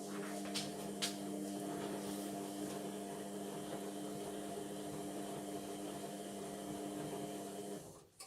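Indesit washing machine's drum motor running as a steady hum for about eight seconds, then cutting off sharply; there is a click just before it starts, two more about a second in, and another after it stops. This is the drum turning during the cotton wash cycle.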